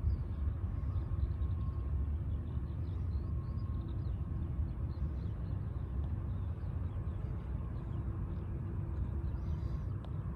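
Distant jet airliner engines giving a steady low rumble with a faint whine in it, and faint bird chirps above it.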